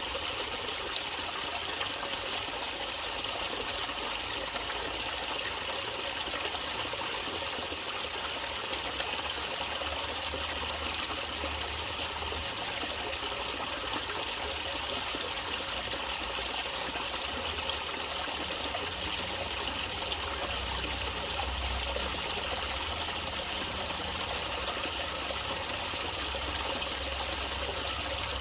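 Natural water flowing and trickling steadily, like a small stream running over rocks.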